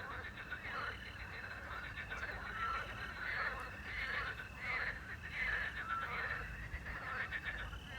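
A night chorus of frogs croaking and trilling, many calls overlapping. A small owl gives a short whistled note about every three seconds, over a steady background of chirping crickets.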